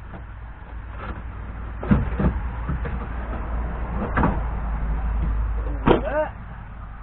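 Knocks and a low rumbling scrape of work on the engine, with a short squeak just after the last knock near the end.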